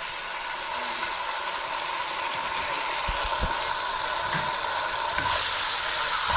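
Sliced onions frying in sausage fat in a frying pan: a steady sizzling hiss that slowly grows louder, with a few soft low thumps in the middle.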